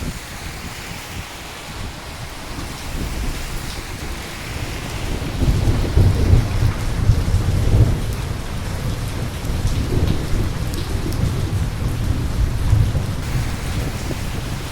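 Steady rain with a long, low roll of thunder that swells about five seconds in and rumbles on for several seconds, with further swells later.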